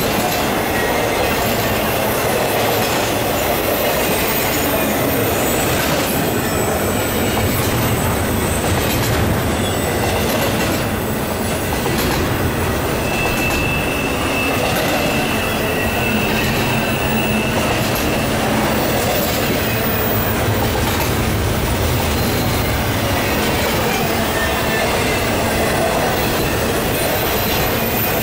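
Intermodal freight cars, trailers on flatcars and double-stack container well cars, rolling past at speed: a steady noise of steel wheels on the rails. A thin high steady tone rings for about five seconds midway.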